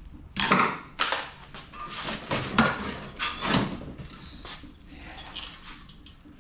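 Irregular metal knocks and clanks from tools working on the sheet-metal casing of a scrapped air conditioner. There are about five sharp strikes in the first four seconds, then lighter ticks.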